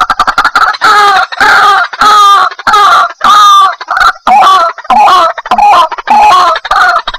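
White-breasted waterhen calling: a fast run of short notes at the start, then loud repeated calls about twice a second.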